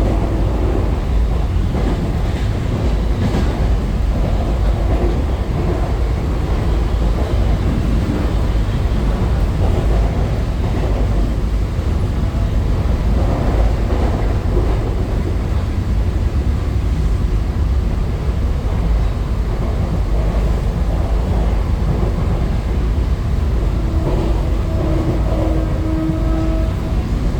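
Western Railway AC suburban local train running, a steady loud low rumble, with a short humming tone near the end.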